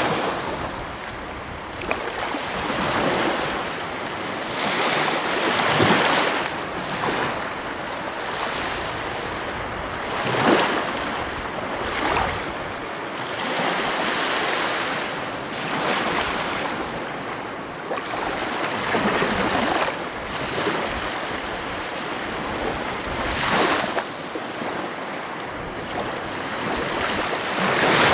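Heavy ocean waves breaking on the coast, one swell of surf after another every few seconds, with the hiss of the wash in between.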